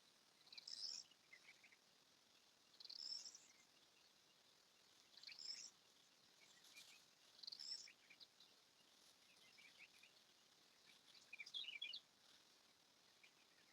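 Faint bird calls: a short high chirping phrase repeated about every two seconds, then a run of scattered chirps near the end.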